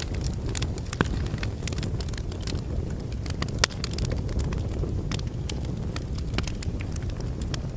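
Log fire burning in a fireplace: a steady low rumble of flames with frequent sharp crackles and pops from the burning wood. A louder pop comes about a second in and another about three and a half seconds in.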